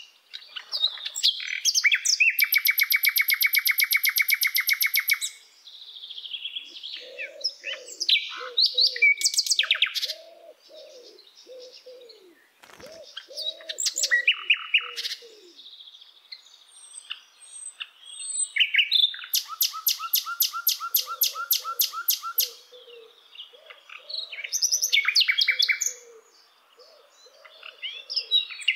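Birds singing: bright chirps and two long, rapid trills, with softer, lower calls repeating in between.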